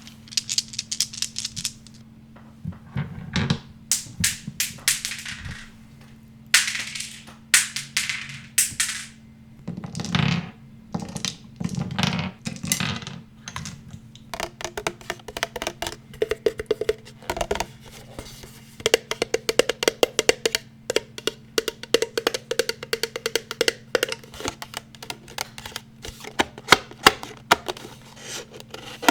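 Brushing and scratching strokes across an unidentified object, then from about halfway through fast, dense tapping on an object that rings with a short tone on many taps.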